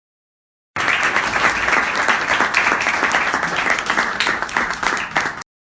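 Applause sound effect: a crowd clapping, starting abruptly about a second in and cutting off suddenly near the end.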